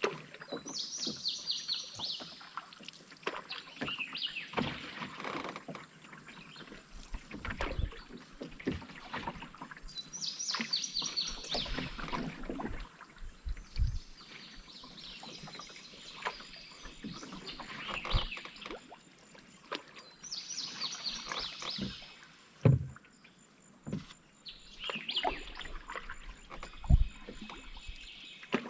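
Canoe paddling: water splashing and dripping off the paddle every few seconds, with a few low knocks.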